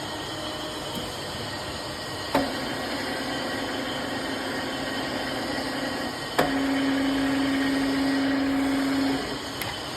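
Turret milling machine running with a steady mechanical whir. A sharp click comes about two and a half seconds in and another about six and a half seconds in. After the second click a louder steady hum runs until about nine seconds in, then drops away.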